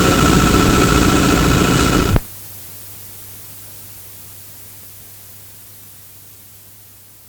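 Cabin noise inside an E902 Flyer electric trolleybus, a loud rumble with a steady high whine, recorded on cassette. It cuts off abruptly about two seconds in where the recording stops, leaving faint tape hiss and a low mains hum that slowly fade.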